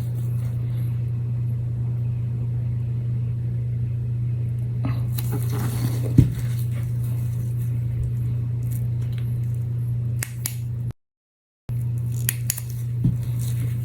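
A steady low hum with a few small clicks and taps from work on a tabletop, one sharper tap about six seconds in. The sound cuts out completely for about a second near the end.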